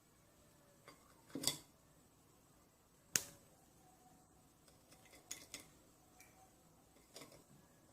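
Several faint, separate sharp clicks and taps of small hard objects being handled, the loudest about three seconds in.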